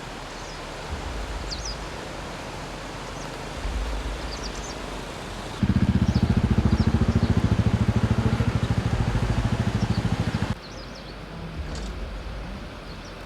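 Outdoor ambience with scattered bird chirps. About halfway through, a loud, low, rapidly throbbing sound like an engine running close by starts suddenly, lasts about five seconds, then cuts off abruptly.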